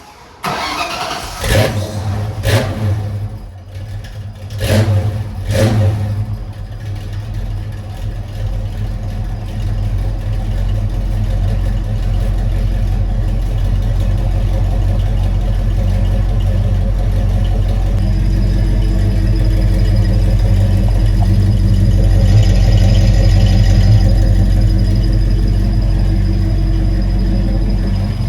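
1982 Mustang GT's 5.0 V8 starting and running through new Flowmaster mufflers and tailpipes: a few quick revs in the first six seconds, then settling into a steady idle.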